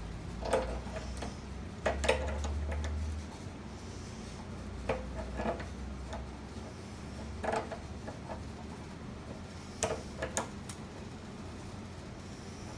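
Small metal clicks and clinks, mostly in quick pairs every two to three seconds, from the gumball machine's lock and bolt hardware being handled and adjusted.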